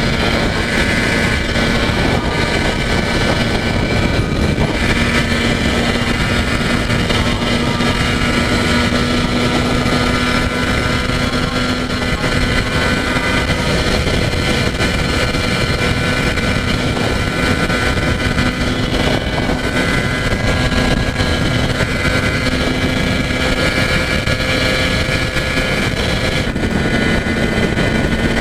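Yamaha TZR250's two-stroke parallel-twin engine running steadily at high revs with wind noise, as when cruising on the highway. Its pitch holds nearly level, shifting slightly a few times.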